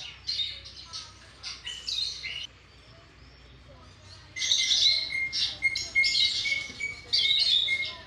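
Birds calling: short, harsh, high calls repeated in quick bursts. They break off for a couple of seconds about halfway, then come back louder and more crowded over a thin, steady high tone.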